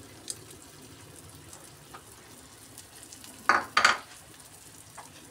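Eggs and onion masala frying faintly on an iron tawa, with a small click near the start and two short, loud bursts of noise about three and a half seconds in.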